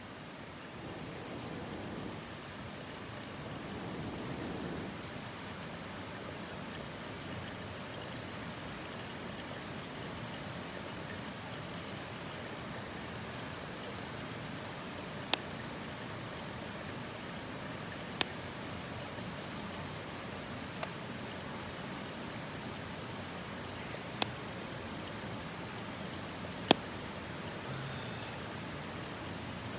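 Wood campfire burning: a steady hiss with five sharp pops spread through the second half.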